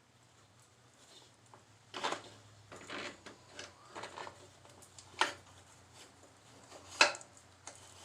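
Scattered clunks and clicks of metal motorcycle rear brake parts being handled and fitted, the sharpest about five and seven seconds in, over a faint steady low hum.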